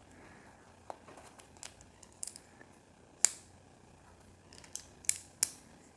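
Small plastic building pieces being handled and snapped together: scattered light clicks, with one sharp click about three seconds in and two more near the end.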